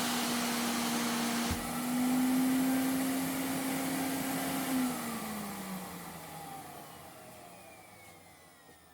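Vacuum cleaner motor running steadily, with a brief knock about a second and a half in. About five seconds in it is switched off, and its whine falls in pitch and fades as the motor spins down.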